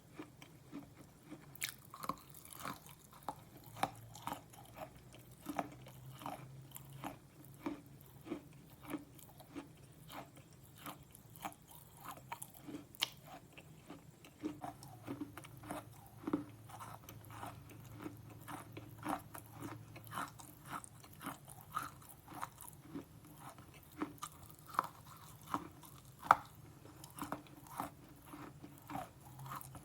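Slate pencil being bitten and chewed close to the microphone: a steady run of sharp, dry crunches, about one to two a second, with one louder snap near the end.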